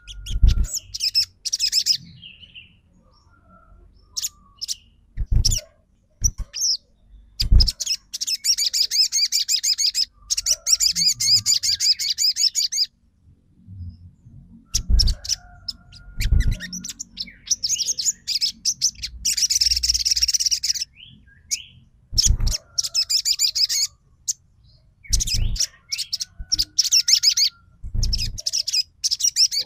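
Sogon trotol songbird calling in bursts of rapid, high chattering notes, each a second or two long, broken by short pauses. A few short low thumps fall between the bursts.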